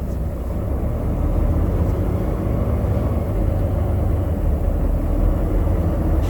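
Truck engine and road noise while driving: a steady low rumble.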